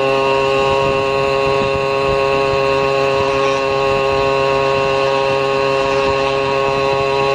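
Motorcycle engine running at a steady speed while riding, a constant hum of several held tones over a low rumble.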